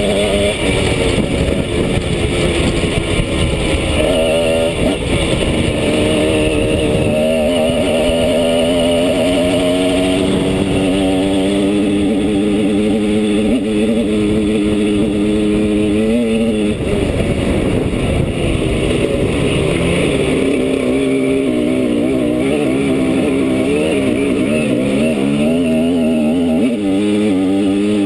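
Simson S51 Enduro's lightly tuned 50 cc single-cylinder two-stroke engine under way, its pitch rising and falling with the throttle and gear changes. It holds a steady high note for several seconds in the middle before dropping off.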